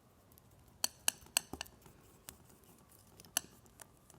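Palette knife clicking and tapping against the palette while mixing burnt umber with white paint: about seven sharp, irregular clicks, most of them in the first half.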